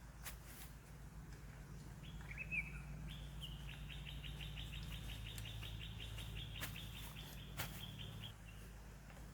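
An animal's high chirping trill of quick, even pulses, starting about two seconds in and stopping shortly before the end, over a low steady hum.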